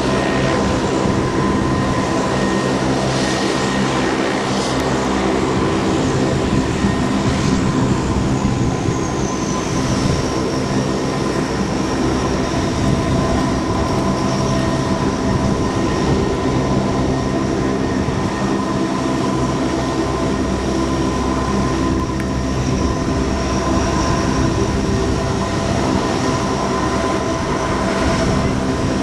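Lockheed P-3C Orion's four Allison T56 turboprop engines running steadily on the ground, with a high turbine whine that drops a little in pitch about nine seconds in.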